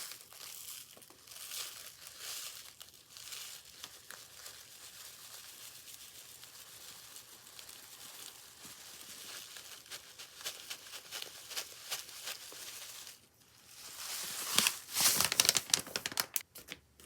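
Dry crinkling and rustling as dried rosemary is handled and sprinkled into a jar, fainter through the middle and louder in the last few seconds.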